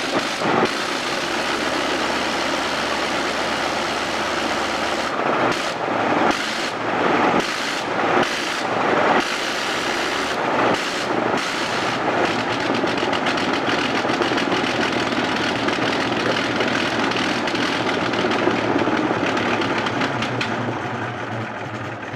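Bristol Scout's rotary aero engine running on a ground run, a dense steady drone with uneven surges and brief dips between about five and eleven seconds in. It falls away near the end.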